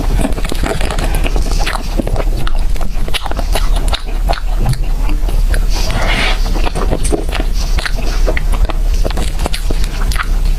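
Close-miked eating of birthday cake: biting and chewing with many small wet mouth clicks and smacks, irregular and continuous. A steady low hum runs underneath.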